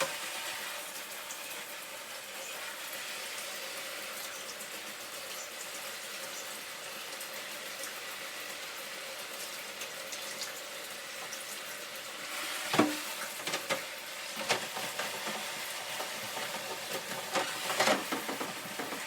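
Shower spray running into a bathtub, a steady hiss. From about two-thirds of the way through, it is broken by knocks and short clattering as a bird cage is handled and scrubbed under the water.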